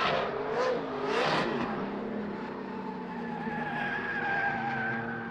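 Drift car's engine revving up and down with tyres skidding twice in the first second and a half, then a steadier engine note that slowly falls.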